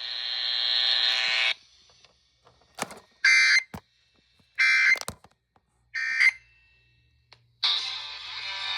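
Emergency Alert System broadcast: a steady buzzing tone ends after about a second and a half. Then come three short, harsh data bursts about a second apart, the end-of-message code that closes a severe thunderstorm warning. Music starts near the end.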